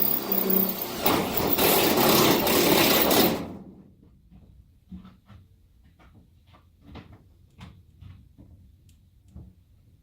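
Power drill running under load as it drills a hole, stopping suddenly about a third of the way in, followed by faint scattered clicks and knocks.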